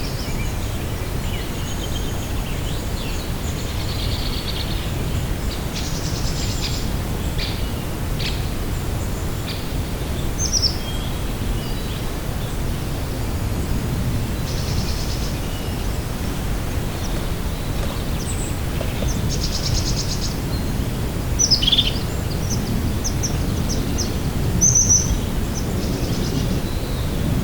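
Outdoor lakeside ambience: scattered birds chirping and calling, with short high notes and a few buzzy trills, over a steady low rushing noise. Two louder calls stand out in the second half.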